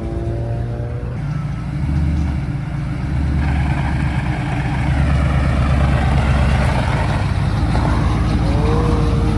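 Pickup truck engine running and revving, growing louder and heavier from about two seconds in, as the truck is run again to try to free a spare wheel stuck on the spindle.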